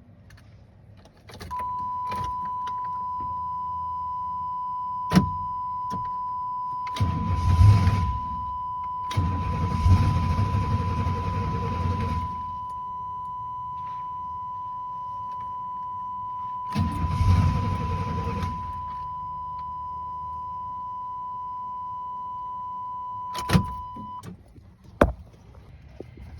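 1996 GMC 1500's 305 V8 being cranked by the starter without catching: three cranking spells of about one and a half, three and two seconds, the symptom of a crank-no-start fault. A steady high warning tone sounds under them and stops near the end, with a few sharp clicks around them.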